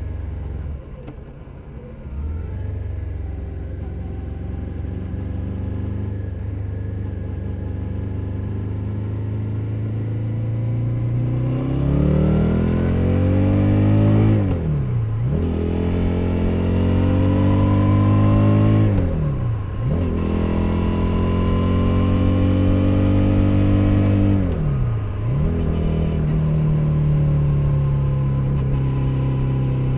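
Suzuki SV 650's 645 cc V-twin engine and exhaust under way. It holds a steady cruise, with a brief throttle-off dip about a second in, then accelerates hard from about the middle, the pitch climbing and dropping sharply three times at the upshifts, and settles back to a steady cruise near the end.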